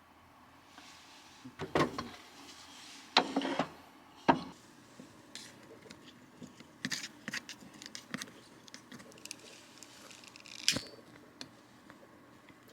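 Scattered clicks, knocks and clatters of small objects being handled in a small room, with louder clatters about two, three and four seconds in and another near the end.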